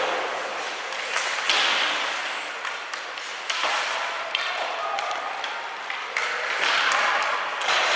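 Ice hockey game play in an arena: several sharp clacks of sticks and puck, over a steady hiss of skates on the ice and crowd noise.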